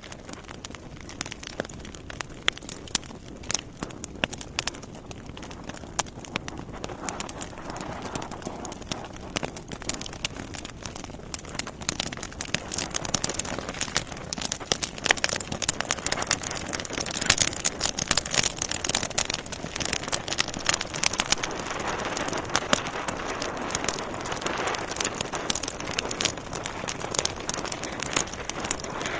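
Wood fire crackling and popping: a steady run of irregular snaps that grows louder and denser after about ten seconds.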